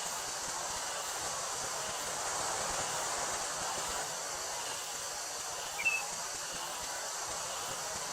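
Wind rustling through a wheat field, with a steady high buzz of summer cicadas. A single short chirp rises out of it about six seconds in.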